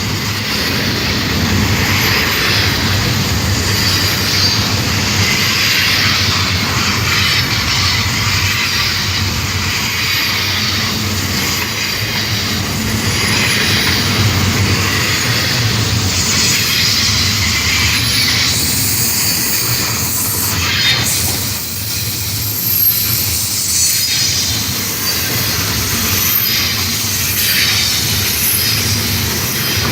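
Long Union Pacific freight train's cars rolling steadily past, steel wheels squealing against the rails with shrill tones that come and go, over a continuous rumble and clatter of wheels on rail joints.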